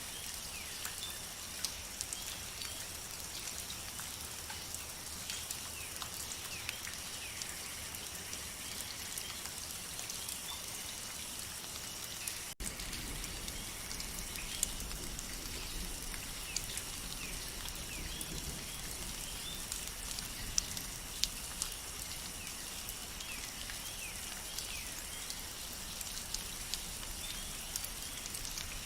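Steady rain falling through rainforest foliage, an even hiss with many close drops tapping, and faint short chirping calls scattered throughout. About halfway through the sound drops out for an instant and comes back with more low rumble.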